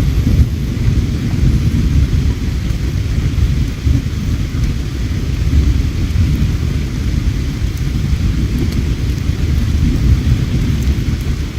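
River water flowing, a steady, low rushing rumble, with a few faint crackles from a campfire near the end.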